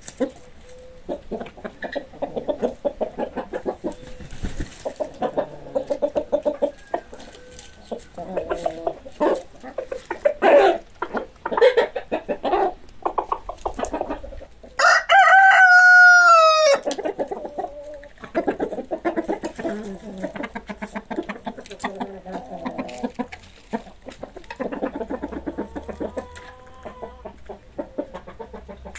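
Chickens clucking in a steady run of short calls, with one loud rooster crow of about two seconds about halfway through, falling in pitch at its end.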